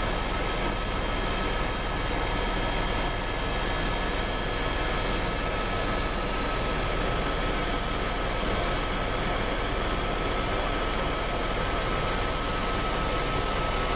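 Helicopter running: an even roar with a steady high whine over it, unchanged throughout.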